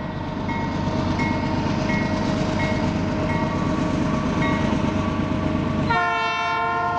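A freight train rumbling steadily, with faint short tones repeating about every three quarters of a second. About six seconds in, the locomotive's air horn gives one blast lasting about a second.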